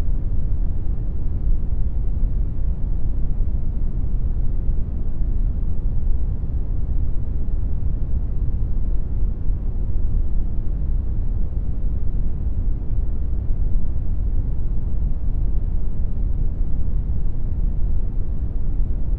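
Synthetic brown noise: a steady, deep rumbling hiss, strongest in the lows and fading smoothly toward the highs, with no change or events.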